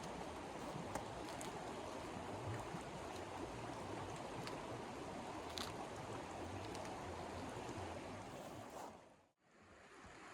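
Steady rushing noise with a few faint ticks through it, dipping briefly to silence about nine seconds in before it resumes.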